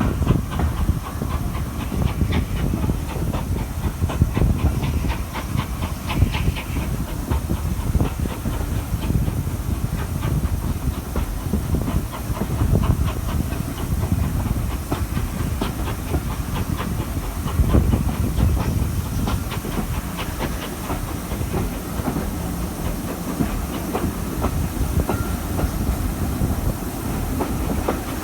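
Train hauled by a steam locomotive, Ivatt Class 2 No. 46512, running along: a steady rumble of wheels on rail, frequent clicks, and a hiss of steam.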